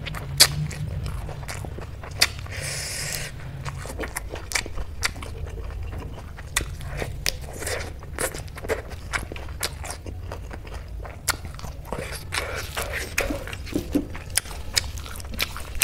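Close-miked wet chewing and lip-smacking of a mouthful of rice and dal, with many short sharp smacks and clicks throughout. Fingers mix rice on a metal plate, and there is a short hiss about three seconds in.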